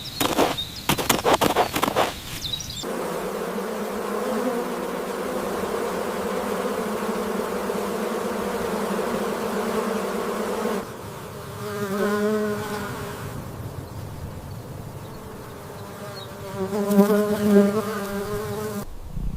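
Bees buzzing: a steady drone begins about three seconds in and drops away a little before the middle, then a nearer buzz wavers in pitch briefly, and again near the end. The first three seconds hold a run of quick crackling clicks.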